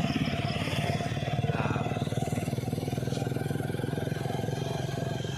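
Motorcycle engine running steadily, its firing pulses an even low rumble.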